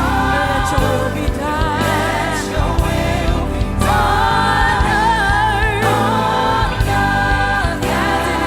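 Live gospel worship music: a band with drums and bass under several singers holding long, wavering notes together.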